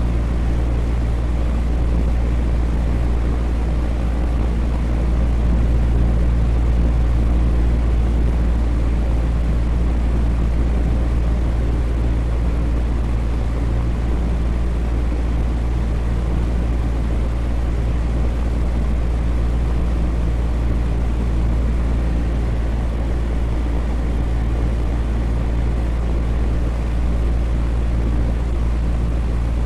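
Electric fan running steadily: an even, unchanging whoosh of moving air, heaviest in the low end, with a faint motor hum underneath.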